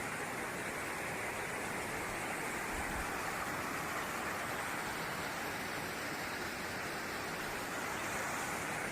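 Waterfall: the steady rush of falling water, an even hiss with no breaks.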